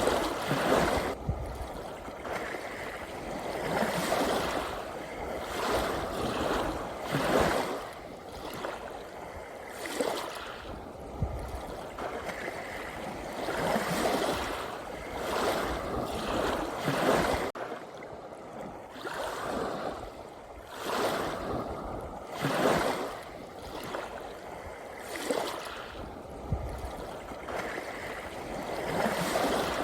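Sea waves washing in, each swell of surf rising and falling away every two to three seconds.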